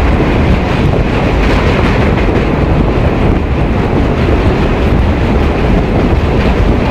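Passenger train running across a steel truss rail bridge, heard from an open coach doorway: a steady, loud rumble mixed with heavy wind buffeting on the microphone.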